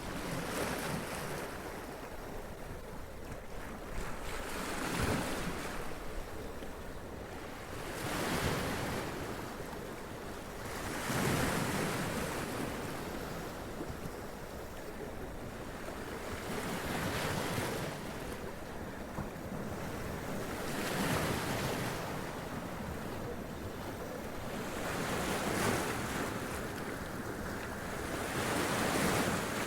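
Sea waves breaking and splashing against rocks, each surge of surf swelling and draining away every few seconds.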